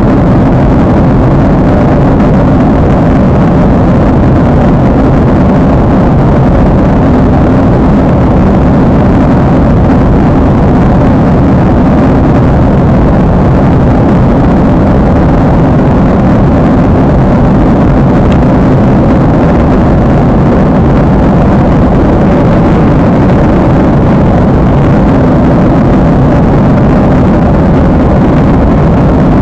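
Jet airliner cabin drone in flight: the steady, low roar of the engines and airflow, unchanging throughout.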